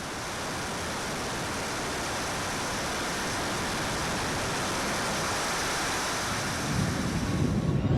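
Twin JetCat P120 gas turbines of a large RC jet model, a steady rushing jet roar that slowly grows louder and cuts off sharply near the end, where gusty wind on the microphone takes over.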